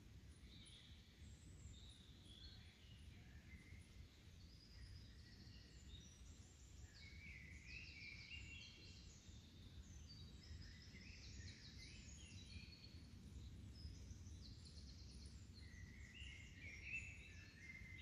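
Songbirds chirping and singing faintly in many short, quick trills and phrases, over a low steady rumble.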